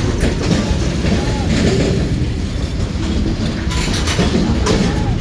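Freight train cars rolling past close by in a loud, steady rumble, their wheels clacking over the rail joints about once a second, with a few short faint squeals.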